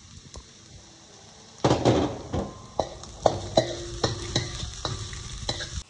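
Chopped garlic and shallots frying in hot oil in a pan, sizzling, while a utensil stirs them and knocks against the pan about twice a second. The sizzle gets much louder about a second and a half in.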